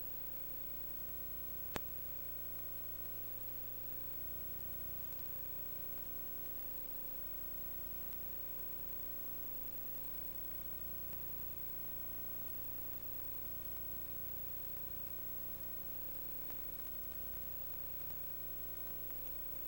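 Steady electrical hum and hiss with several fixed tones, broken by a single sharp click about two seconds in.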